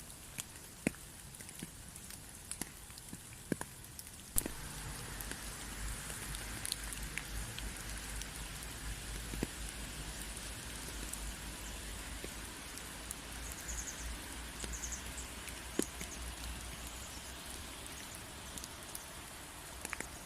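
Rain falling, with scattered sharp drops landing close by. About four seconds in the rain turns louder and fuller, with a low rumble underneath.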